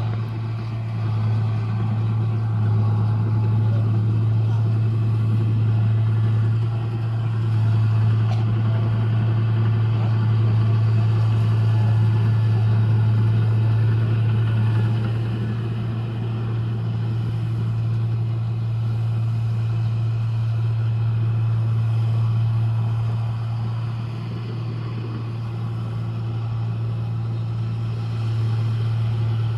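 Rice combine harvester's diesel engine running steadily under working load, a deep even hum that eases slightly about three-quarters of the way through.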